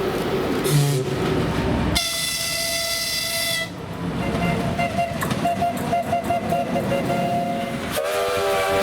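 ES1P Lastochka electric multiple unit running past with a steady rumble, sounding a short horn blast about two seconds in. A steady whining tone runs through the train noise afterwards, and another horn-like tone starts near the end.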